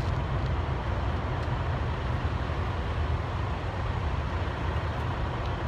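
Steady low rumble of a running truck, engine and road noise, unbroken throughout.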